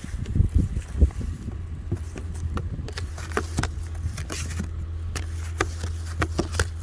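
Snow brush scraping and knocking snow off a car's windshield in short, irregular strokes, over a steady low hum from the car.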